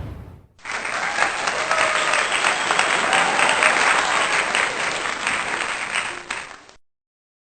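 Crowd applauding, with a few cheering voices, for about six seconds. It starts about half a second in after the fading tail of a boom, and cuts off suddenly near the end.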